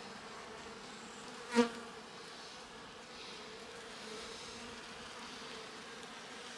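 Honeybee colony humming steadily in an opened hive, with one brief, loud buzz about one and a half seconds in.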